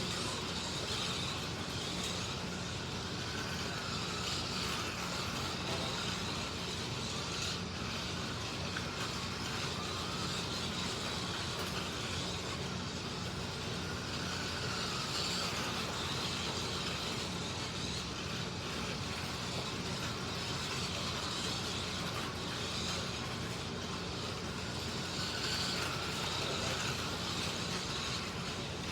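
Slot cars running laps on a track: their small electric motors whine, rising and falling in pitch every few seconds as the cars speed up and slow down. A steady low hum runs underneath.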